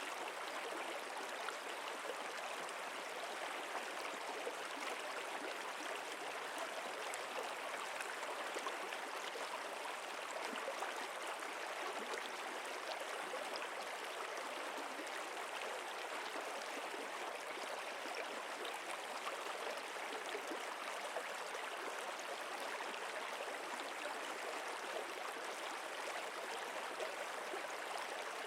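Water of a stream flowing, a steady, even rush that stays the same throughout.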